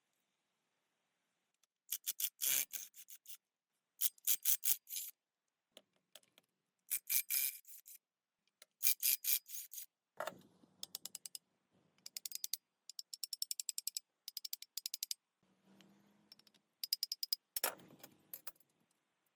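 Rapid mechanical clicking in a series of short bursts, like a ratcheting tool being worked back and forth, with longer runs of faster, quieter clicks in the middle.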